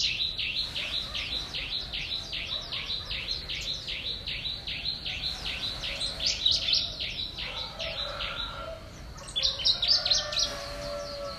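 A bird chirping rapidly and evenly, about three short, sharp chirps a second, with a louder burst of chirps near the end.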